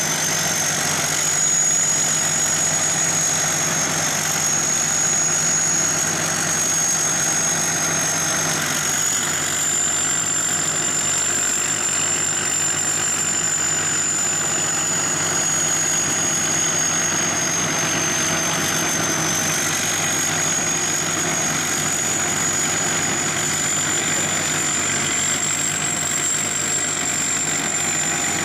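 SS-200 A rice combine harvester running steadily, its engine and machinery carrying a high whine that drifts slowly up and down in pitch.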